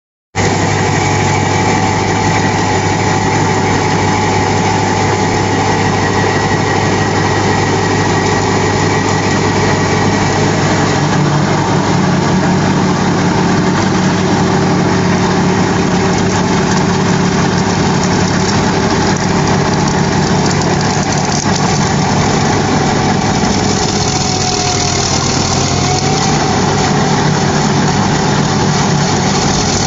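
Tractor engine running steadily, its note shifting slightly about eleven seconds in and again near the end.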